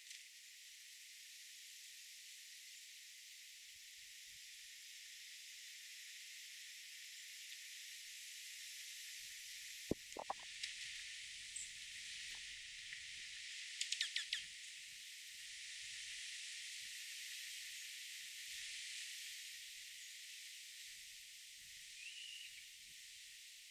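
Faint, steady high hiss of outdoor garden ambience, with a sharp click about ten seconds in, a quick run of clicks a few seconds later, and one short bird chirp near the end.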